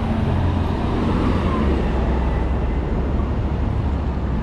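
Street traffic noise: a steady low engine drone from nearby vehicles over a general city hum, the drone dropping slightly in pitch about a second and a half in.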